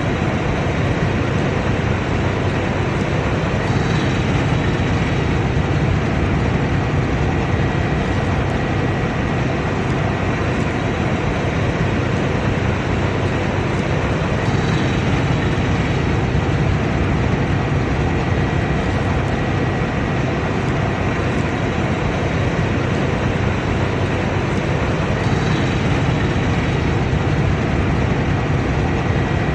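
Combine harvester running steadily under load, its engine and threshing machinery making a dense, unbroken noise with a faint high steady whine.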